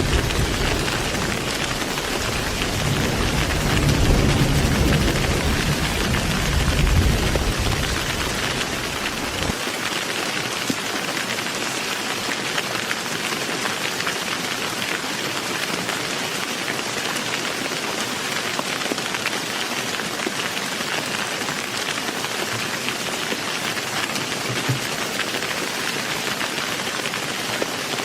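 Heavy rain falling in a steady hiss, with a low rolling rumble of thunder that swells twice and then cuts off abruptly about nine seconds in, leaving only the rain.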